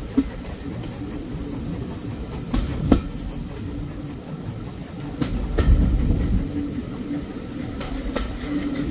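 Heritage railway carriage running along the line: a steady low rumble of wheels on track, with a few sharp clicks and knocks as the wheels pass over rail joints, and a louder rumble a little past halfway.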